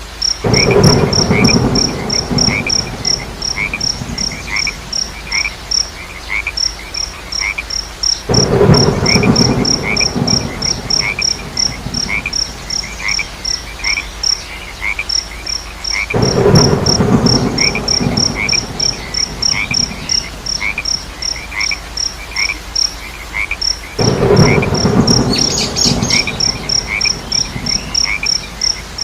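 Night chorus of crickets and frogs calling in rapid, evenly spaced pulses: a high chirp about four times a second over a lower repeated call. A low rumbling surge of two to three seconds swells up about every eight seconds, four times, like thunder or a gust of rain.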